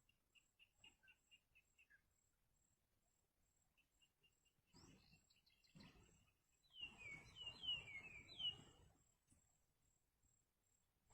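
Yellow-vented bulbul calls at the nest during feeding of the chicks: a run of short, high peeps, then a louder cluster of down-slurred calls with rustling about seven seconds in.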